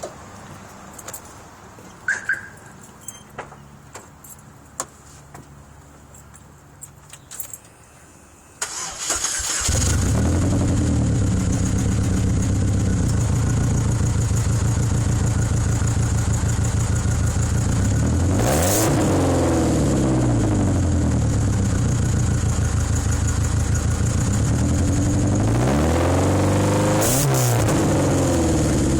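A few scattered clicks, then about nine seconds in the 2005 Chevy Cavalier's 2.2 Ecotec four-cylinder cranks and starts, settling into a loud idle through its full 2.5-inch exhaust with MagnaFlow mufflers. It is revved twice, rising and falling back to idle, about halfway through and near the end.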